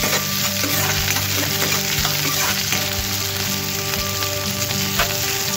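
Onion, sweet corn and green beans sizzling steadily in ghee in an iron kadhai, stirred with a metal spatula.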